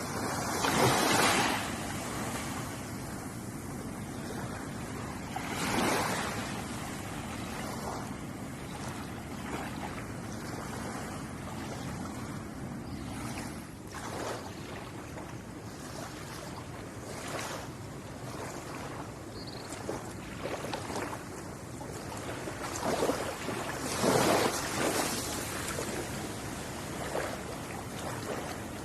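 Ocean waves washing onto a shore: a steady rush of surf with louder breakers surging about a second in, around six seconds, and again in a bigger swell some twenty-three to twenty-five seconds in.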